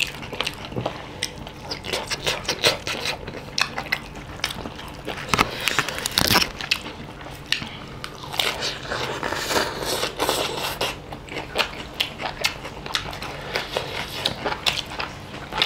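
Close-up chewing and biting of food, with many short crunches and crackles, as people eat rice, chicken curry and fresh greens by hand.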